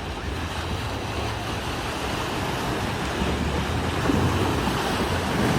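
Ocean surf washing onto the beach, a steady rushing wash that grows a little louder toward the end, with wind rumbling on the microphone.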